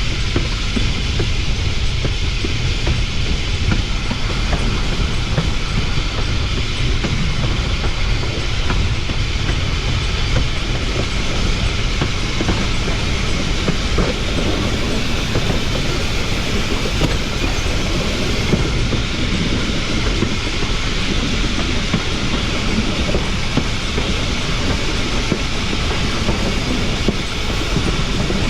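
Pilot truck wheels of Cumbres & Toltec narrow-gauge steam locomotive 488 rolling along the rails, a steady, loud rumble and rattle of wheels on track.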